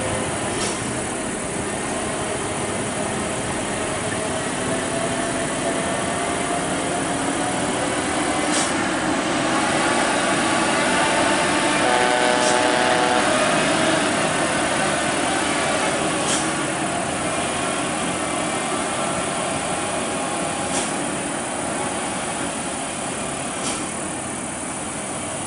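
Vehicle engines running with steady traffic noise. One engine's pitch rises slowly over the first several seconds, a steadier engine note stands out around the middle, and there are a few faint clicks.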